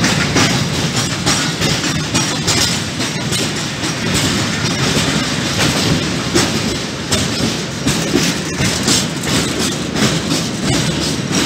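Freight train of tank wagons rolling past close by, with a steady rumble of wheels on rail and repeated clacks as the wheels run over rail joints.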